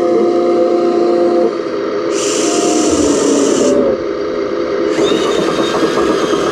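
Radio-controlled model excavator working, its motors and pump whining with tones that shift in pitch as the machine moves, plus a sharp hiss from about two to four seconds in.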